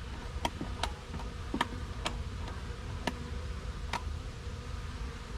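A ratchet strap being tightened: about six sharp clicks at uneven intervals, one for each pull of the handle.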